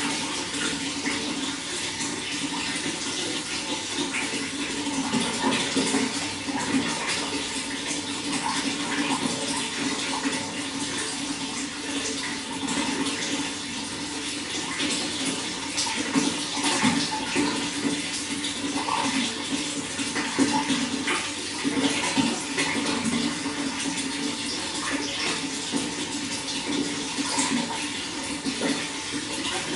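Running water flowing steadily, with small irregular splashes.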